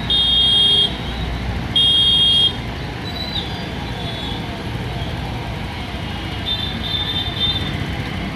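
Street traffic under a steady wash of noise, with two loud vehicle horn honks in the first two and a half seconds and fainter honking later.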